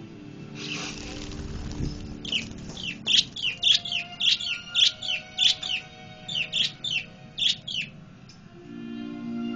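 Pet budgerigars chirping: a run of sharp, falling chirps, about two a second, that starts a couple of seconds in after a brief rustle and stops near the end.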